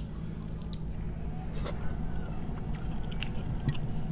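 A person chewing a mouthful of seafood close to the microphone, with scattered small mouth clicks.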